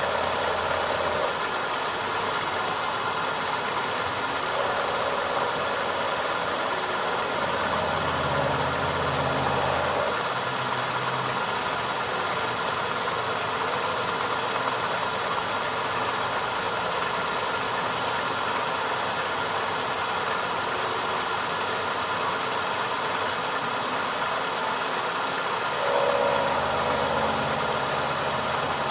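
A machine running steadily, its hum shifting in tone in a few stretches, a little after 4 seconds and about 26 seconds in.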